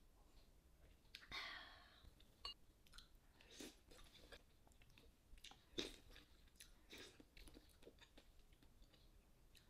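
Quiet close-up chewing and mouth sounds of someone eating, with scattered small clicks and snaps and a brief breathy hiss about a second and a half in.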